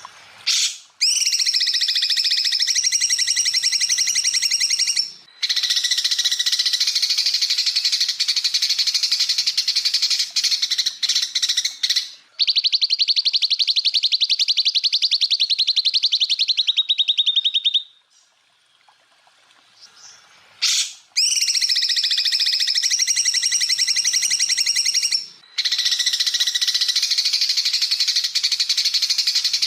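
Greater green leafbird (cucak ijo) singing loud, fast song phrases. The phrases are long and unbroken. In the middle there is a rapid, even rattling trill lasting about five seconds, then a pause of about two seconds before the song starts again.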